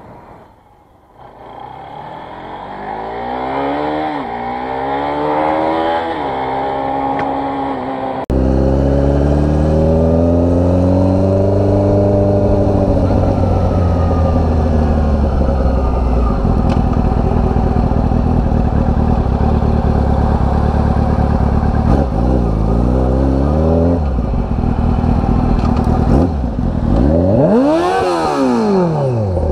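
Motorcycle engine accelerating and easing off, its pitch rising and falling through the gears, over steady road and wind noise. About eight seconds in the sound cuts suddenly to a louder, deeper engine note, and near the end the pitch climbs sharply and drops again.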